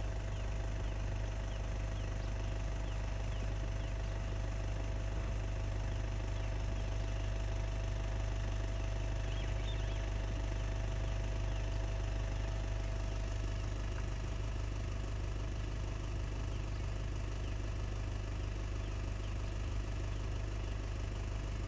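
Car engine idling steadily, a constant low rumble with a faint steady hum above it.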